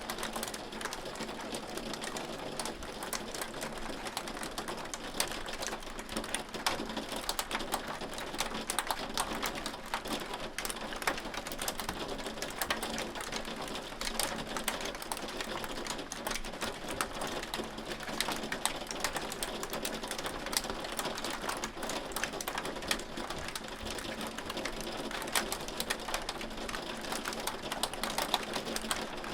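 Hail falling steadily: a dense, unbroken patter of countless small sharp clicks from pellets striking a hard surface, over a steady hiss.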